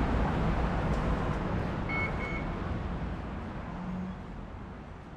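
Rumbling ride noise of a Bangkok BTS Skytrain car, dying away steadily, with two short high beeps about two seconds in.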